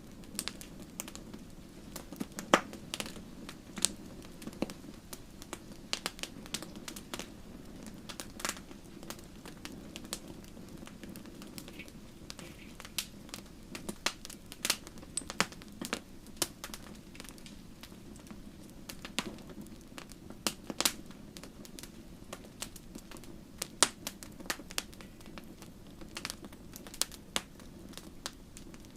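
Wood fire crackling: irregular sharp pops and snaps, a few each second, over a steady low hiss of burning.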